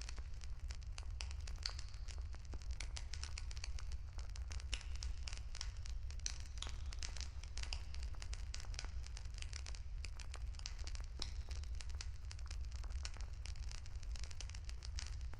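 Wood bonfire crackling, with a dense, irregular stream of small pops and snaps over a steady low rumble.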